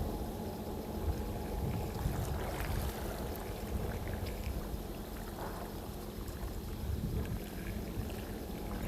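Steady low rumble of outdoor background noise with a faint constant hum, with no distinct events.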